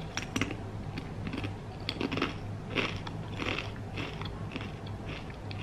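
A person chewing crunchy cassava chips with the mouth closed, a short crunch every half second to a second.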